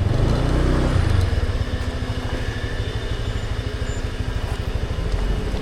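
A small motor scooter's engine running at low speed while it is maneuvered. It is a little louder for about the first second, then runs steady.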